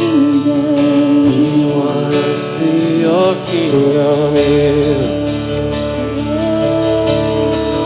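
Slow acoustic worship music: guitar chords under a voice singing a wordless, sliding melody.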